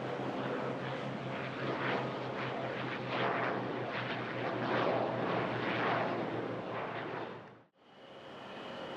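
Beech King Air 350's twin turboprops running at power on the runway, a steady pulsing drone with swelling rushing noise. The sound drops away suddenly near the end, and a quieter, steady whine of another aircraft follows.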